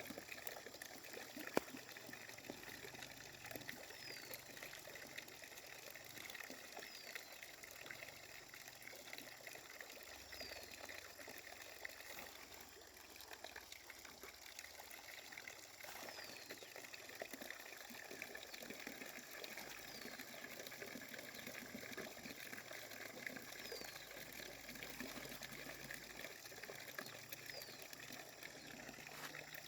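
Water trickling steadily, with a faint short falling chirp repeating every few seconds and a single sharp click about a second and a half in.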